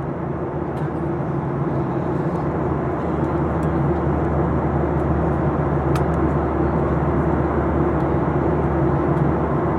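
Cabin noise inside a Boeing 737-800: the CFM56-7B jet engines running steadily with a low droning hum and an even airflow rush, with a faint click about six seconds in.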